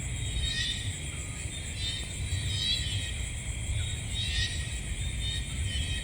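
Night insect chorus, a steady high-pitched shrill, with a short chirping call repeating about every two seconds over a low steady rumble.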